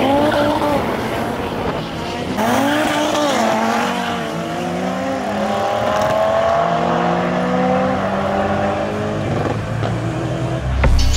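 Drag-racing cars launching and running at full throttle, their engines climbing in pitch and dropping back at each gear change. A deep whoosh sweeps down near the end.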